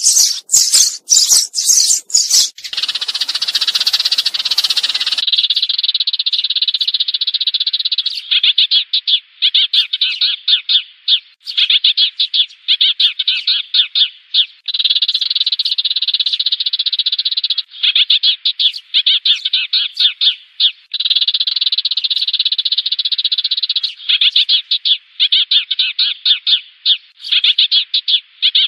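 Sparrow calls used as a decoy to lure a flock: runs of rapid chattering chirps, each about three seconds long with brief breaks, repeating over and over. The first few seconds hold sharp clicks and then a harsher noisy stretch before the chirping settles in.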